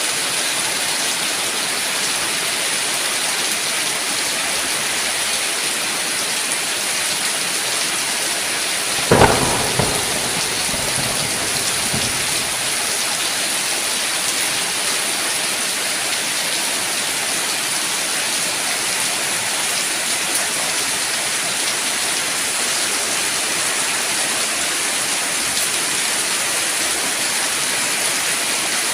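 Heavy rain falling steadily, with a single sharp thunderclap about nine seconds in that rumbles off over the next few seconds.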